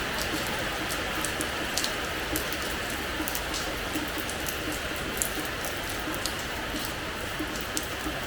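Steady rain falling on a hard terrace floor, a constant hiss with many separate drops striking and pattering irregularly.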